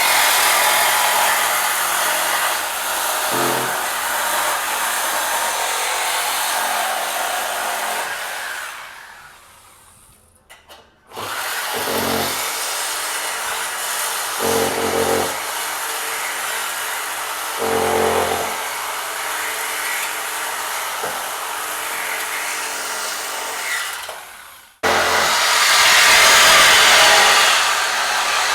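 Power tools running with a loud, steady whir, broken by a few short, low thumps. The noise dies away about nine seconds in, starts again, and changes abruptly near the end.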